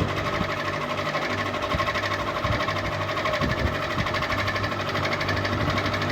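Ceiling fan running steadily: a constant motor hum with a fast, even rattle.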